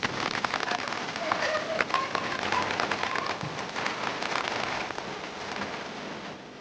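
Rain mixed with hail pattering steadily on surfaces, with many sharp ticks of hailstones striking throughout.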